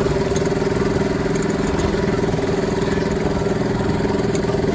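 Miniature railway locomotive's engine running steadily as it pulls the passenger train, a constant drone with a strong steady tone over a low rumble.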